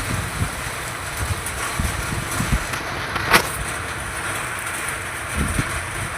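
Steady outdoor hiss with irregular low wind buffets on the microphone, and a single sharp click about three and a half seconds in.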